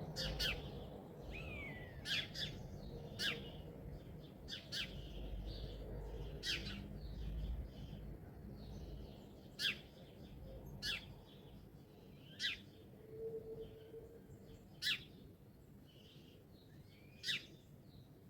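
Songbirds calling: short, sharp chirps every second or two, one a quick falling note, over a low background rumble that fades away.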